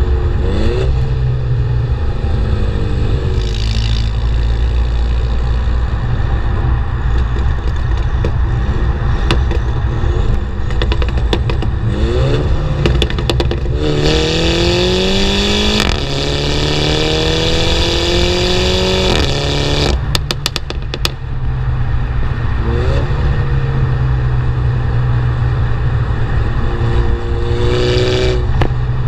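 Mini Cooper JCW's turbocharged four-cylinder running through the JCW Pro exhaust with its valves open, heard close at the tailpipe. Revs climb repeatedly under acceleration, the longest pull about halfway through. There are runs of sharp crackling pops when the throttle is lifted, most plainly just after the longest pull.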